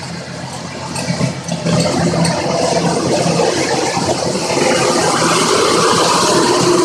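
Squid-fishing vessel's machinery running steadily: a constant low engine hum under a loud, even hiss.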